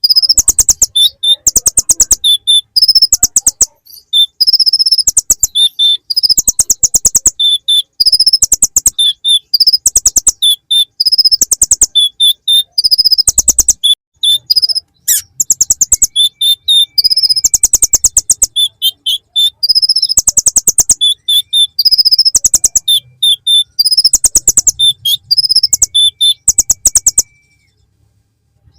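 Kolibri ninja sunbird singing a song full of ciblek (bar-winged prinia) phrases: high-pitched, rapid trills and chips in bursts of about a second with short pauses between them. The song stops for a moment near the end.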